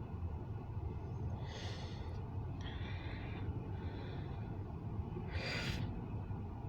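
A person breathing and sniffing close to the microphone, four short breaths or sniffs over a steady low rumble.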